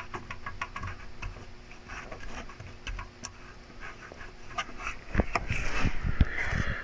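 BMW N20 four-cylinder turbo engine running with a quick, light mechanical ticking, a few heavier knocks near the end; the owner is checking whether the timing chain and its guide are worn.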